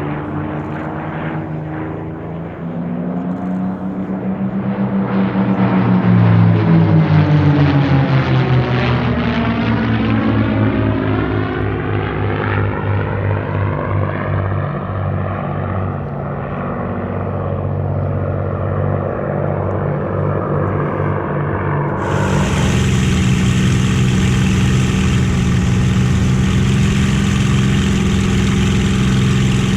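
Merlin V-12 engine of a piston warbird fighter flying past, its pitch sweeping up and then down as it passes. About two thirds of the way in, the sound cuts abruptly to a steady, closer engine drone.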